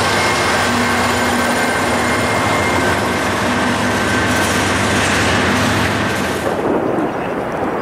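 Freight train of covered hopper cars rolling past close by: a loud, steady rush of steel wheels on rail with a few steady high tones over it. The rush falls away sharply about six and a half seconds in.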